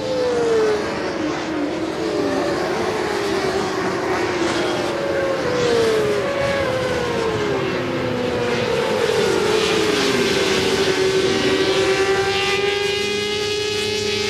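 Several 400 cc supersport racing motorcycles running at race speed. Their engine notes slide down in pitch one after another as they shift and go past, and from about ten seconds in one engine holds a steady high note.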